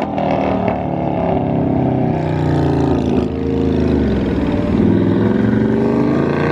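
Car engine revving hard, its pitch climbing and dropping several times.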